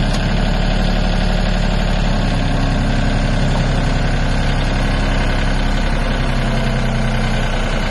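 Mahindra Yuvo Tech Plus tractor's diesel engine running steadily near idle.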